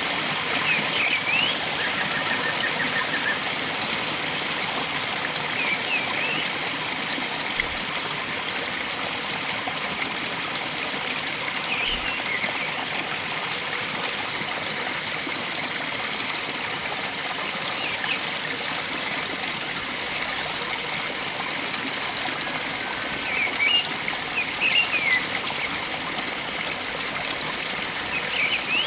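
Flowing water running steadily, with short quick bird chirps breaking in every few seconds, several in a cluster near the end, and a brief trill near the start.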